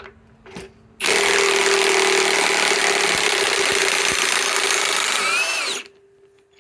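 Ridgid high-torque impact wrench hammering steadily for about five seconds, backing a large lag screw out of wood, then winding down as the trigger is let go. A couple of faint clicks come just before it starts.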